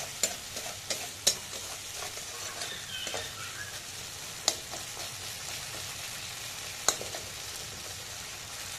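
Thick masala sizzling in a kadhai while a flat spatula stirs and scrapes through it, with a few sharp clicks of the spatula against the pan.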